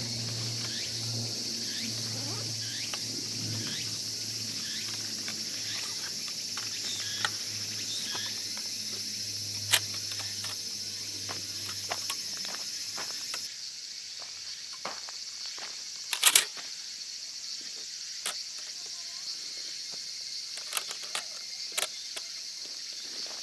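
Insects shrilling steadily in a high-pitched chorus, which drops off sharply about halfway through, with scattered sharp clicks and knocks of camp gear being handled, the loudest a quick double knock a few seconds later.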